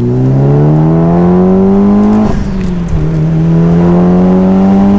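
Mitsubishi Lancer Evolution VIII's turbocharged 2.0-litre four-cylinder accelerating at full throttle through a catless 3-inch exhaust, heard from inside the cabin with a window open. The engine note climbs, drops sharply at an upshift a little over two seconds in, then climbs again in the next gear.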